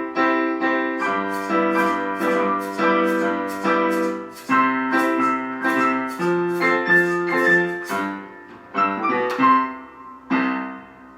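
Solo piano music: chords and melody notes struck at a steady, lively pace, slowing toward the end with a final chord about ten seconds in that rings and fades.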